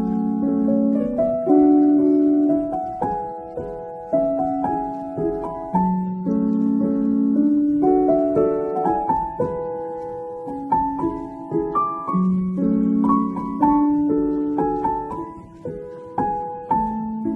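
Background piano music: slow, gentle notes and chords, each struck and left to ring out.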